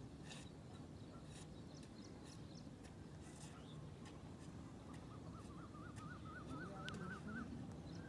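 Quiet outdoor background with a steady low rumble. About five seconds in, a faint bird call warbles rapidly up and down in pitch, rising slightly over about two seconds, then stops.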